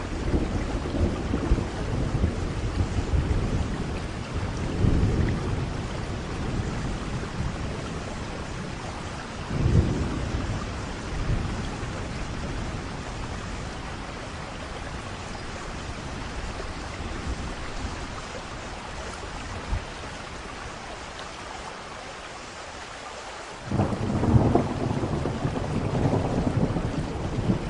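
Thunderstorm: steady rain with rolling thunder rumbles, a louder peal of thunder breaking in suddenly about four-fifths of the way through.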